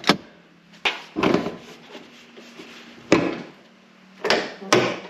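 Several sharp clunks and knocks from a 2019 Ford Explorer's hood being released and opened, its latch letting go.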